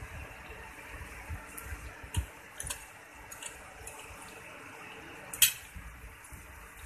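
Cutlery clinking on a plate: a few light clinks, then one sharper clink about five seconds in, over a low steady hiss.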